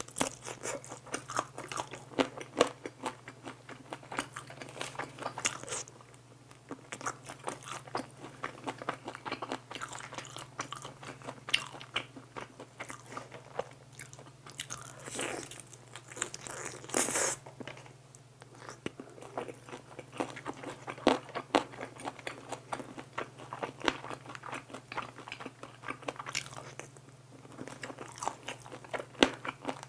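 Close-miked biting, crunching and chewing of crisp, sauce-glazed fried chicken, in quick irregular crackles with quieter chewing between bites, over a steady low hum.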